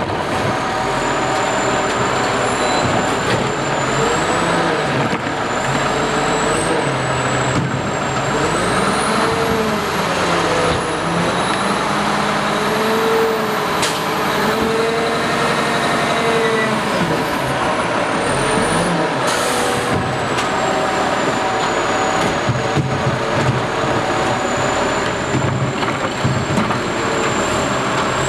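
Freightliner Condor garbage truck working, its engine and hydraulics running loudly, with whines that rise and fall slowly in pitch.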